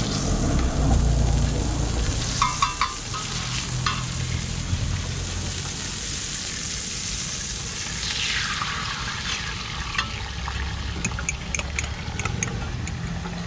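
Roti frying and sizzling in oil on a hot flat griddle, with a steady hiss. There are a few sharp clinks about two to four seconds in, and light ticks near the end, over a low rumble.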